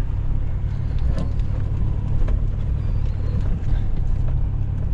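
Vehicle driving slowly down a lane, heard from inside the cab: a steady low rumble of engine and tyres, with a few faint knocks.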